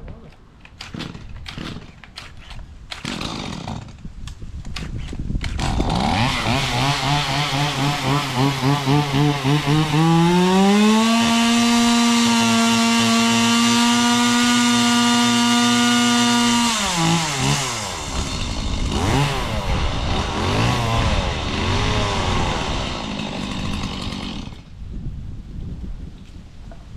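A two-stroke chainsaw runs after a few short sharp sounds at the start. It revs up to a high, steady full-throttle whine held for about six seconds, drops back to an uneven lower speed, and cuts off a couple of seconds before the end.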